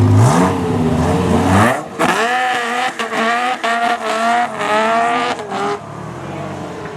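Dodge Viper's 8.0-litre V10 revving up from idle, then a quick series of about six rising revs, each cut off sharply, before the engine sound drops away near the end.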